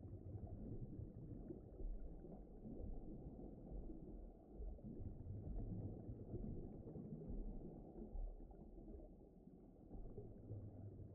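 Low, muffled rumbling ambience, swelling and easing every few seconds, with no clear tone or rhythm.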